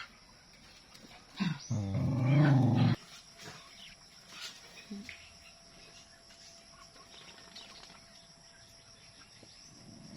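A dog gives one low, drawn-out growl, about a second and a half long, starting just over a second in.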